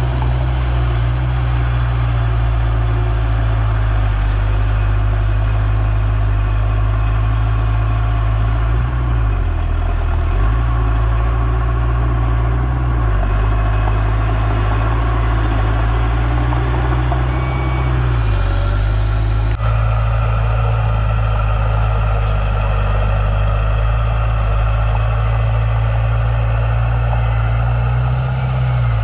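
Heavy diesel engine of earthmoving machinery running steadily with a deep note that dips briefly twice, about nine seconds in and again around eighteen seconds.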